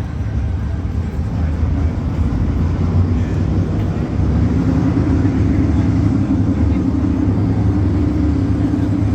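A motor vehicle's engine running with a steady low rumble, getting louder about four seconds in.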